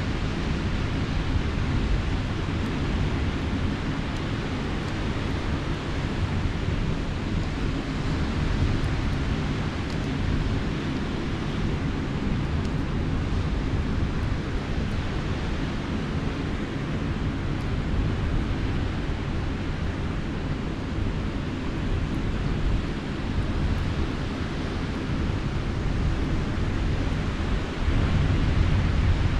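Sea surf washing on the shore and wind rumbling on the microphone, steady throughout and a little louder near the end, with faint scattered crackles from a campfire.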